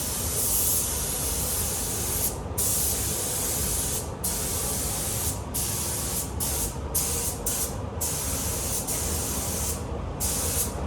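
Compressed-air paint spray gun hissing as it lays a base coat on a car panel at about 1.5 bar. The spray runs in passes, cut by several brief pauses where the trigger is released.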